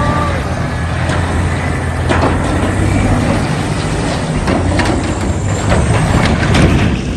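A large vehicle's engine running steadily, with scattered knocks and clattering over it.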